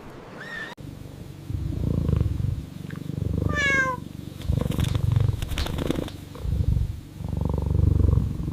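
Cat purring in several rumbling spells, with one short call falling in pitch about three and a half seconds in.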